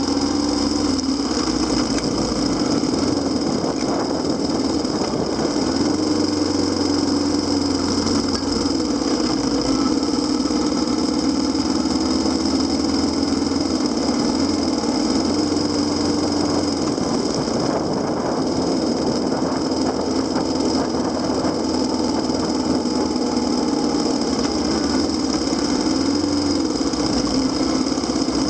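Kawasaki KLX250SR's single-cylinder four-stroke engine running under way, its pitch rising and falling every few seconds with throttle and gear changes.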